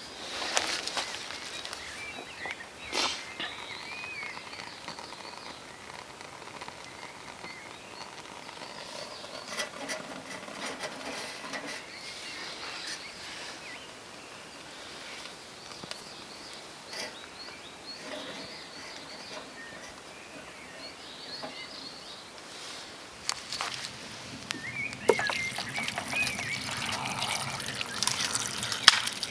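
Small birds chirping and calling in woodland, with scattered clicks and knocks of handling; the knocking and clattering grow busier and louder in the last few seconds.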